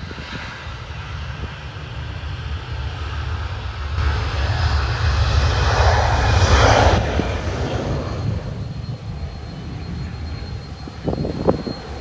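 Jet airliner passing overhead: engine noise swells to a peak about six to seven seconds in, then fades away, over a steady low rumble.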